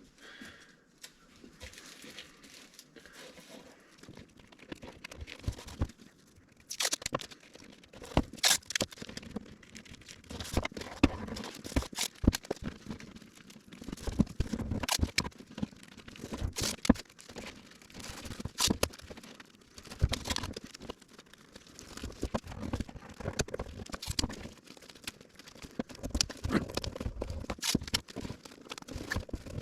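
Masking tape being pulled off the roll, torn and pressed down into the crevice of a door panel: faint at first, then irregular crackles and sharp snaps from about seven seconds in.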